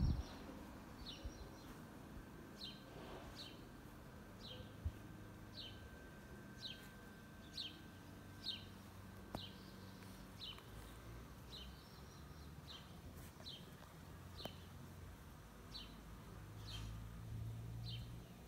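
A small songbird repeating one short, high, falling call about once a second. Under it runs a faint low buzz of honeybees that grows louder near the end, close to the hive entrance.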